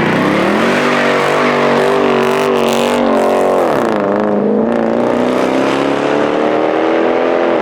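Big-turbo Nissan 350Z's V6 engine held at high revs, the pitch wavering; it dips just before four seconds in, then climbs steadily again.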